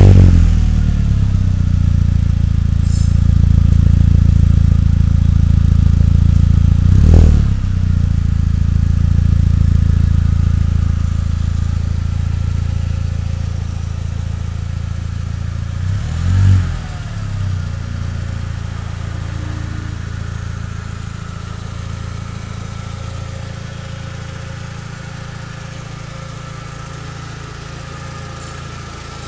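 SEAT Ibiza FR's turbocharged 20-valve four-cylinder engine running through a custom exhaust with a 70 mm downpipe and 63.5 mm cat-back, just after being started: a fast idle with two short revs, about seven and sixteen seconds in, then the idle slowly settling lower and quieter.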